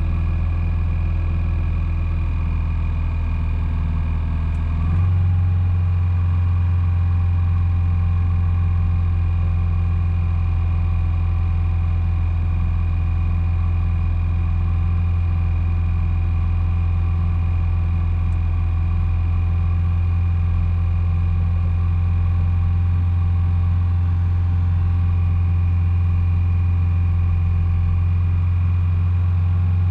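1986 Volvo 245's carbureted B23A four-cylinder engine idling steadily. About five seconds in, its note steps up slightly to a higher idle and holds there.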